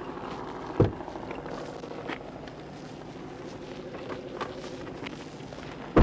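Parked police patrol car idling with a steady hum. A sharp knock comes about a second in and a louder thump at the very end, with a few faint clicks between.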